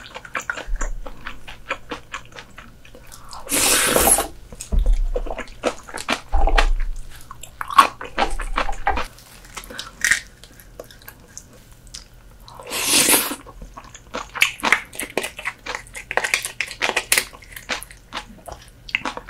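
Close-miked eating sounds of soy-sauce marinated horsehair crab: wet chewing, smacking and small crackles, with two louder, longer noisy sounds about 4 and 13 seconds in.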